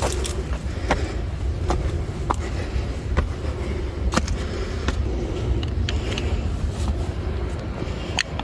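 Footsteps on a hill forest track, a short sharp step roughly every second, over a steady low rumble.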